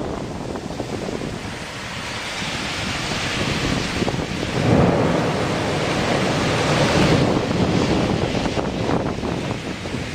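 Microburst downdraft winds blowing hard and buffeting the microphone, with a loud gust surging in about four and a half seconds in.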